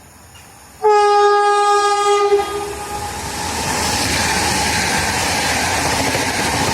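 Passenger train sounding one horn blast of a single pitch, starting about a second in and lasting about a second and a half, followed by the loud, steady noise of the train passing with wheels clacking on the rails.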